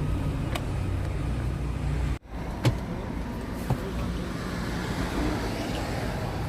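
Car driving: a steady low engine and road rumble, broken off abruptly about two seconds in before it carries on, with a few faint clicks.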